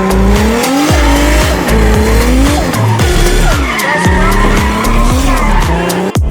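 A drift car's engine revving up and down as it slides, with tyres squealing, over the heavy bass beat of background music.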